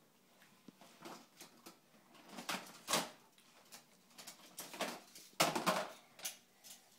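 Plastic Magformers magnetic building tiles clacking and snapping together as they are handled, an irregular string of clicks and clatters. The loudest clatters come about three seconds in and again around five and a half seconds.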